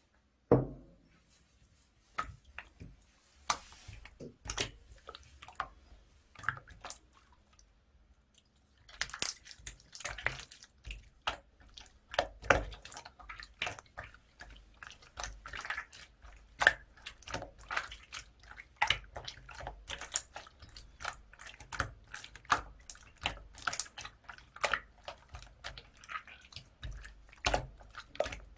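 Hands kneading and pressing clay-mixed slime, making sticky clicks: a few scattered ones at first, then many quick clicks each second from about nine seconds in.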